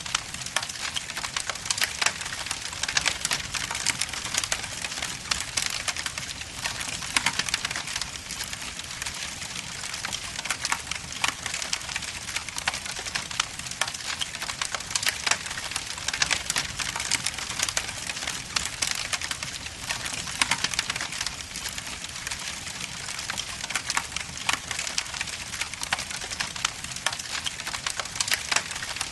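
Log fire burning in a fireplace: steady crackling with dense pops and snaps of burning wood over a soft hiss.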